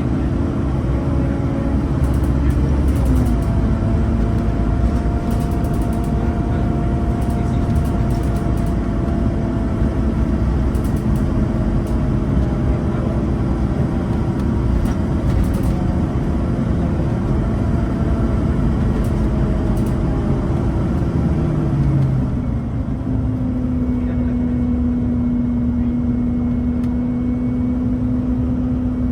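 Scania N230UB Omnicity bus's five-cylinder diesel engine running under way, its pitch stepping down about three seconds in and again shortly after twenty seconds, where it settles into a lower steady note.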